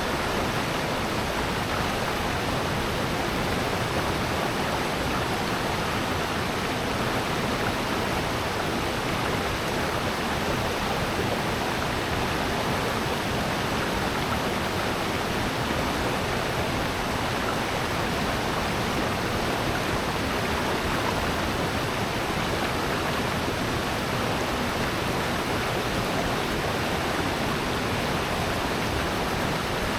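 Steady rush of water in a mountain valley stream with small falls: an even hiss that holds at one level throughout.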